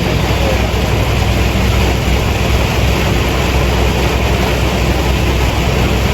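Steady noise inside a long-haul truck's cab at highway speed: a low engine drone under even road and wind noise.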